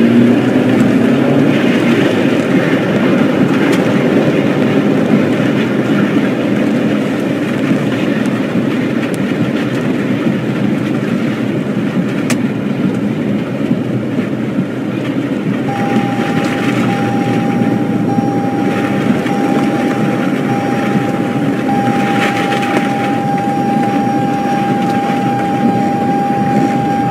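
Tornado wind: a loud, steady rushing noise, train-like. About halfway through, a steady high tone joins it and holds to the end.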